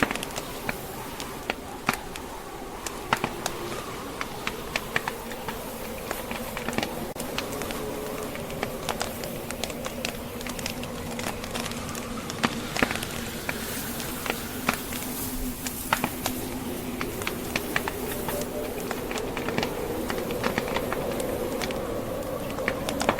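Log fire crackling with many irregular sharp pops, over a steady blizzard wind whose low howl wavers slowly in pitch.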